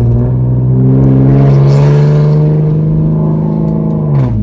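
Nissan 370Z's 3.7-litre V6 through a straight-piped single-exit exhaust with no muffler or catalytic converters, loud. The engine rises in pitch just after the start, holds the raised revs steadily for a few seconds, then drops back down near the end.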